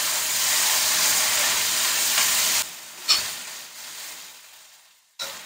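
Shallots, garlic and spice paste sizzling in hot oil in a wok while being stirred with a metal spatula. The sizzle drops sharply a little past halfway, with a single knock just after, then fades out.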